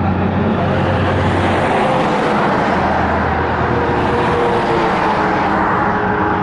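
Fast highway traffic passing close by: tyre and engine noise swelling to a peak about two to three seconds in, then easing off, over a steady low hum.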